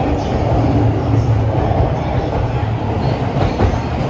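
Electric train running along a station platform: a steady low rumble with a few sharp wheel knocks in the second half.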